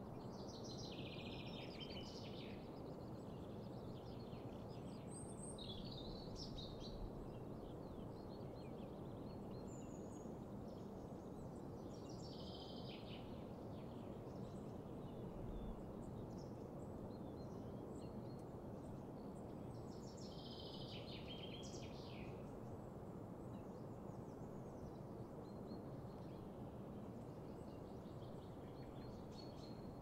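Songbirds singing short, chirpy phrases every few seconds over a steady low background hiss.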